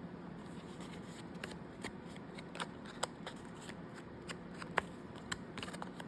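Paper and card being handled on a desk: soft rustling and sliding with scattered small clicks and taps, the sharpest about three seconds in and near five seconds.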